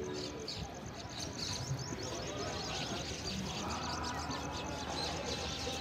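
Birds chirping, many short high calls overlapping one another, over a murmur of indistinct voices.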